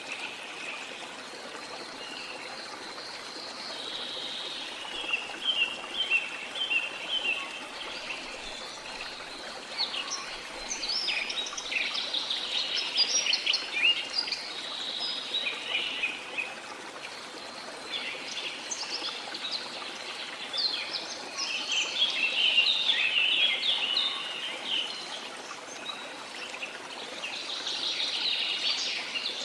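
Small birds chirping and singing in bursts of quick, high calls over a steady wash of water.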